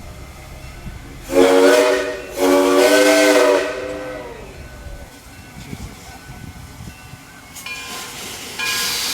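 Steam locomotive whistle blowing two blasts, a short one then a longer one, each a chord of several tones over a rush of steam. Steam hissing starts near the end.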